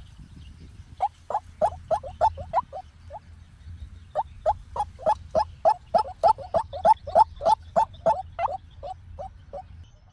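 White-breasted waterhen calling: a quick run of short notes repeated about three times a second, a brief series, a gap of about a second, then a longer series.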